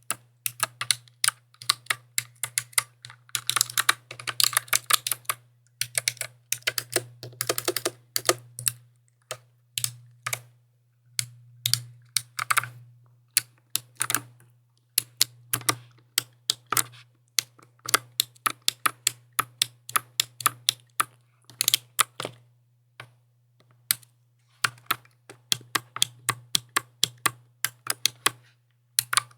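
Mechanical keyboard being typed on: crisp key clicks, coming in quick runs of fast typing between slower, spaced keystrokes. A faint low hum runs underneath.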